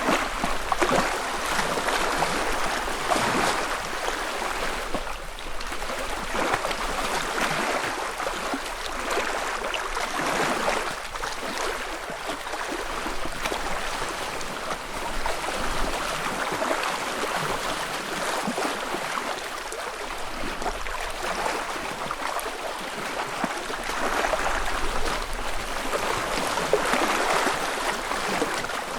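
Small wavelets lapping and splashing softly against a lakeshore, in irregular gentle surges every few seconds.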